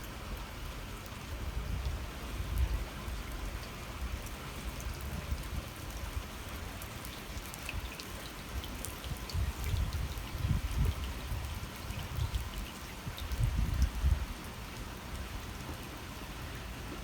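Water murmuring along a channel, a steady fine splashing patter with many tiny droplet ticks. A few low rumbles rise and fall through it.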